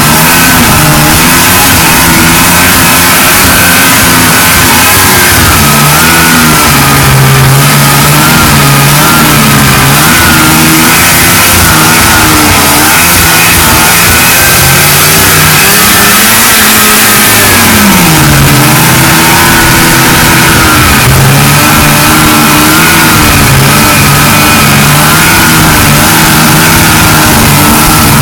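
1979 Ski-Doo Blizzard 5500 snowmobile's two-stroke engine running under way, its pitch wavering with the throttle and rising and falling once about two-thirds of the way through, over a steady hiss.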